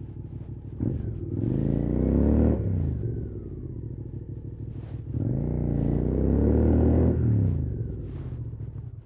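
QJ Motor SVT650X's parallel-twin engine through an Arrow slip-on exhaust, the rider opening the throttle twice: the engine note climbs for a second or two, then falls away as the throttle closes, each time.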